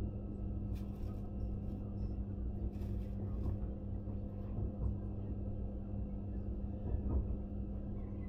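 Low steady hum and rumble inside a stationary train carriage, with a couple of faint clatters about one and three seconds in.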